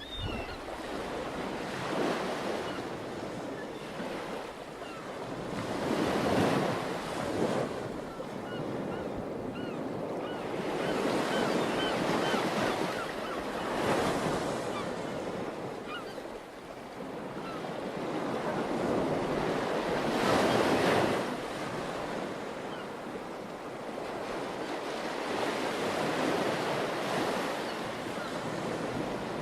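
Ocean surf breaking on a beach, swelling and fading every few seconds, with wind on the microphone.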